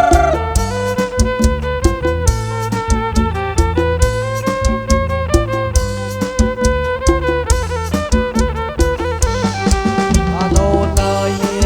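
Live kantrum band playing an instrumental passage: a bowed fiddle-like lead melody over a steady drum beat and bass.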